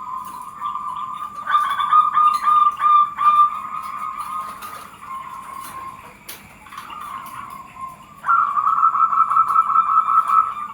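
Zebra doves (perkutut) cooing, their rapid pulsed notes running on without break and overlapping, with louder runs of notes about a second and a half in and again from about eight seconds in. A single sharp click falls a little past the middle.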